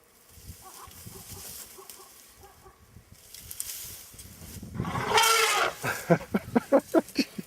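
Young male African elephant trumpeting: a loud blast about five seconds in, then a quick run of short, pulsed calls, as a warning during a mock charge.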